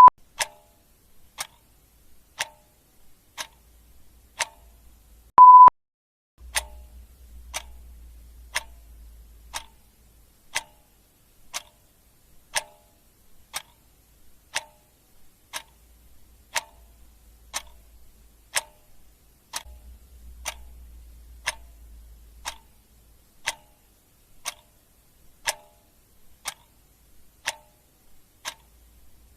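Clock ticking steadily, about one tick a second, with a short high beep about five seconds in.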